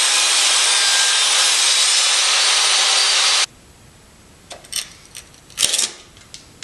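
Power saw cutting through wood: a loud, steady cut that stops abruptly about three and a half seconds in. Then a few light clicks and knocks.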